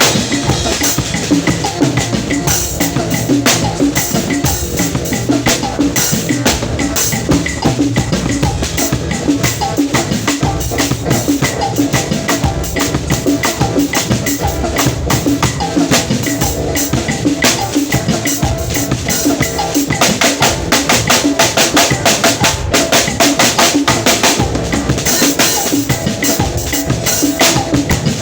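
Drum kit played without a break: a fast, dense run of strokes that does not stop.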